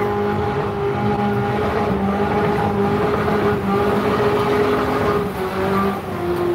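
Car engine held at steady revs while the tyres spin in a smoky burnout, its pitch dipping slightly near the end.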